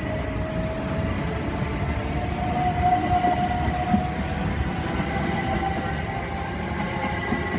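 Class 377 Electrostar electric multiple unit pulling away, its traction motors whining in a tone that climbs over the first few seconds and then holds, over a steady rumble of wheels on rail.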